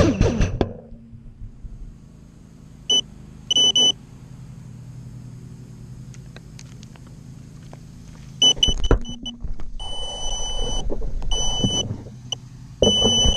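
An FPV quadcopter's motors whine down and stop within the first second. Then the drone's on-board buzzer sounds a series of high beeps, first short ones and later several longer ones, over a low steady hum.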